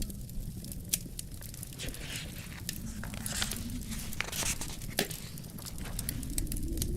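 Wood fire crackling in a fireplace: many small snaps and hisses, with sharper pops about a second in and near five seconds, over a steady low rumble of wind.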